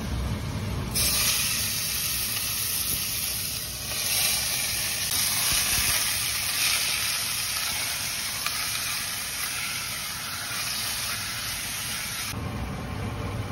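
Diced raw chicken sizzling in hot oil in a stainless steel frying pan while it is stirred with a spatula. The sizzle starts suddenly about a second in and cuts off suddenly near the end.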